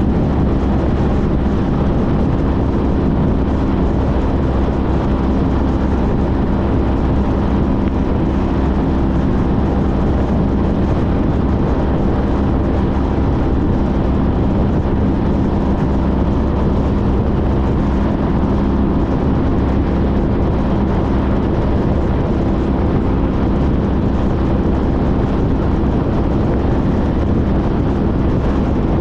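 Honda CTX1300's V4 engine running steadily at cruising speed while the motorcycle rides along, with a constant rush of wind over it.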